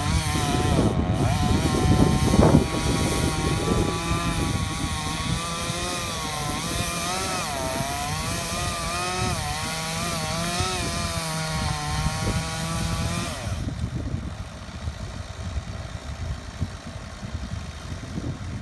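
Engine running, its pitch wavering up and down, over a lower steady rumble; the wavering engine sound stops about thirteen seconds in while the rumble carries on.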